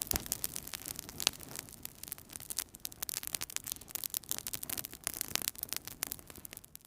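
Wood fire crackling in a fireplace: irregular sharp pops and snaps, several a second, with one louder crack about a second in, over a soft hiss.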